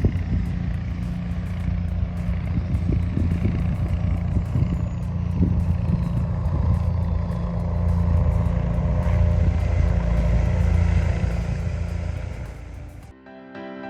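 P-8 Poseidon's twin turbofan jet engines rumbling through a low, fast pass: the deep roar swells to a peak, then fades and cuts off abruptly near the end.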